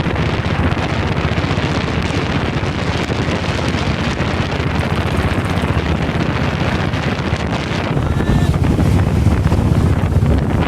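Wind buffeting the microphone of a moving motorcycle, with the single-cylinder engine of a Royal Enfield Bullet running underneath. The wind grows louder about eight seconds in.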